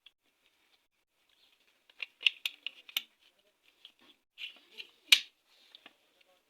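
Metal motorcycle engine parts clicking and clinking as they are fitted together by hand. A quick run of sharp clicks about two seconds in, a few more later, and one loudest click near the end.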